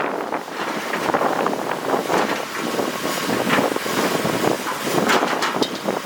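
Heavy earthmoving machinery at work: continuous engine noise with irregular clattering and crunching, typical of a bulldozer's tracks and stone being pushed or tipped.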